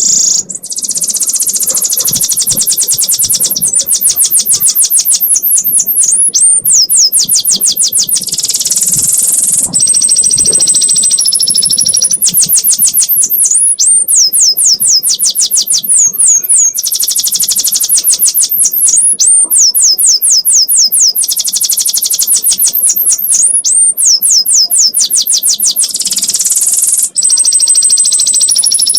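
Domestic canary singing a long unbroken 'ngekek' song: fast high trills of rapidly repeated notes, run after run, broken by a few short held whistles.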